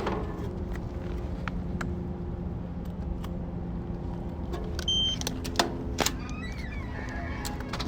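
Electric unicycle riding: a steady low rumble with a faint motor hum, scattered clicks and knocks, and a short high beep about five seconds in.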